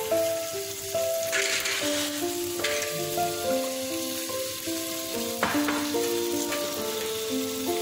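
Chicken breasts sizzling on a hot grill pan, with the sizzle surging louder a few times, under background music that plays a simple melody of held notes.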